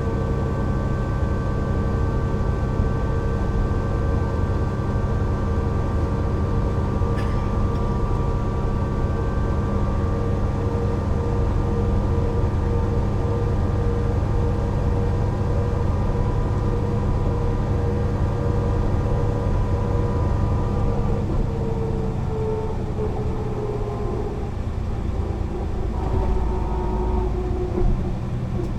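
Mercedes-Benz O 405 NÜ intercity bus under way: a steady mechanical drone with several whining tones from the engine and drivetrain. About three-quarters of the way through, the tones fall in pitch as the bus slows, and new tones then set in.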